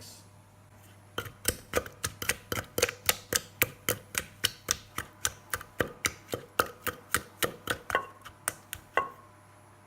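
Pestle pounding rhythmically in a big mortar, about three or four sharp knocks a second, mixing chilli, garlic, pickled fish and palm sugar for som tam. The pounding starts about a second in and stops near the end.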